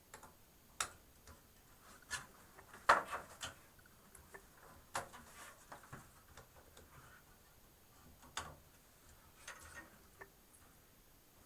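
Scattered light clicks and taps of cables and plastic connectors being handled inside a computer case, at an uneven pace, the loudest about three seconds in.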